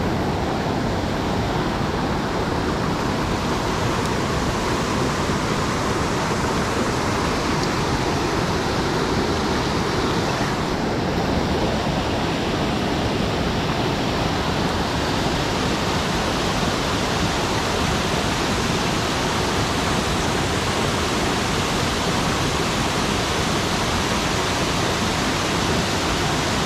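Steady rushing of a mountain stream's flowing water, an even unbroken noise at close range.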